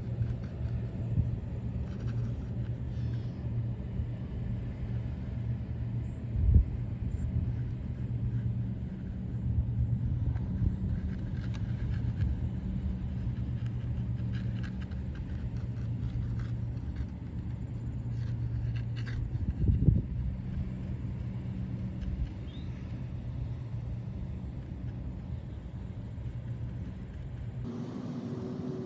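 A steady low engine hum, with a couple of brief thumps about six and twenty seconds in.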